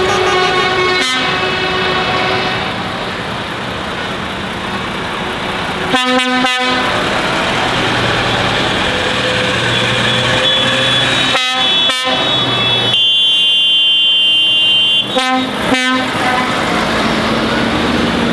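Lorries in a convoy driving past with engines running and air horns sounding, several horn tones of different pitch coming and going.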